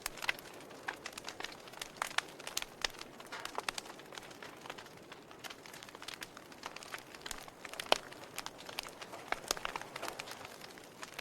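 Wood fire in a fireplace crackling, with irregular sharp pops and snaps over a soft hiss; the loudest snap comes about eight seconds in.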